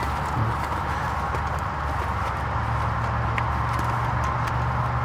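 Steady low hum of the 2020 Hyundai Sonata Limited running at idle, with a fan-like hiss over it and a few faint light clicks and taps.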